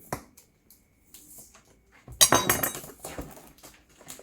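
Hard objects clinking and rattling as the coffee maker's box and packed parts are handled. A single click comes at the start, a dense clatter with a bright ringing edge about two seconds in, and a sharp click at the end.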